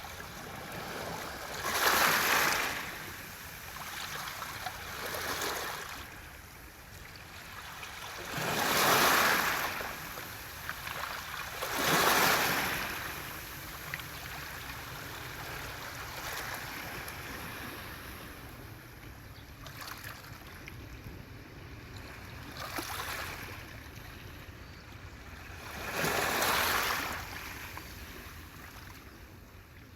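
Sea waves washing onto a beach of smooth round pebbles (mongdol), each wave swelling to a rushing hiss and draining back through the stones, every few seconds.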